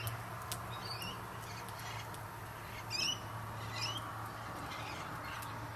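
Birds calling: short calls with quick sliding notes, repeated several times, the loudest about three seconds in, over a faint steady low hum.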